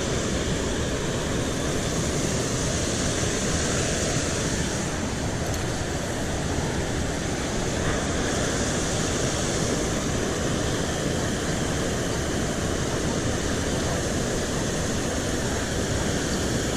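Steady rushing of water pouring over a small spillway.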